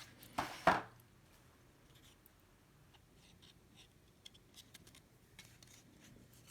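Trading cards being handled and stacked: two short, loud scrapes of card stock in the first second, then faint rustling and light clicks.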